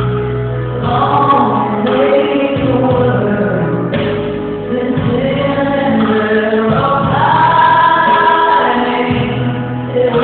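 A choir singing gospel-style Christmas music with instrumental accompaniment, sustained notes that move in pitch.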